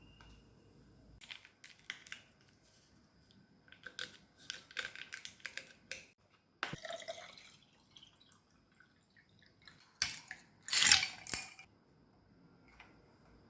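Small clicks, taps and clatter from handling things, with a louder, longer burst of noise about ten seconds in.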